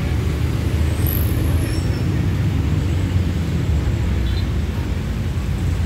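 Passenger train pulling away slowly: a steady low rumble of the diesel locomotive and the coaches rolling on the rails.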